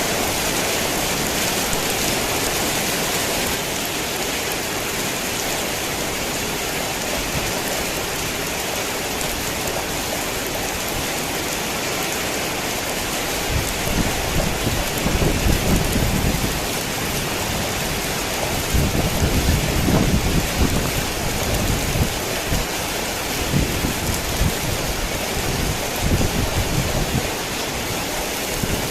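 Heavy rain falling steadily, with low, uneven rumbles of distant thunder starting about halfway through and coming back several times.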